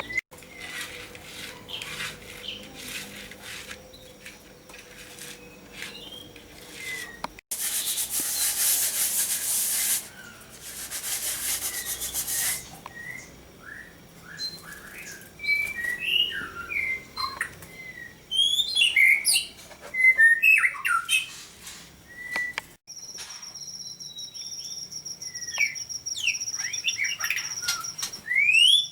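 Caged songbirds chirping and calling in short rising and falling notes. Two long stretches of loud hiss come in the first half, and a steady high-pitched ringing tone runs under the calls for the last few seconds.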